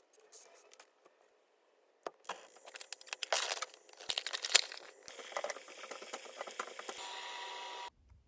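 Close crinkling and rustling, dense and crackly, starting about two seconds in. A steady hum joins near the end, and everything cuts off suddenly.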